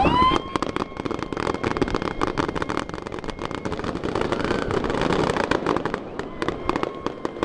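Aerial fireworks: a whistle rising in pitch at the start, then dense, rapid crackling of many small pops for several seconds. Another whistle near the end.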